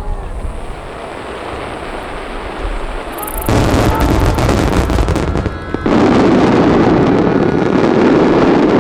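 Aerial fireworks shells bursting over the sea. Rumbling echoes give way, about three and a half seconds in, to a sudden dense volley of booms and crackles that grows even denser near the end.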